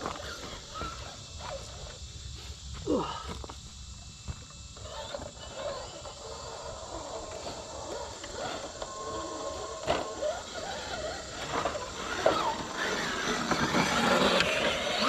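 Traxxas TRX6 RC crawler trucks working down over rock: electric drive motors and gears whining in short bursts, with the tyres scraping on rock, busier and louder toward the end.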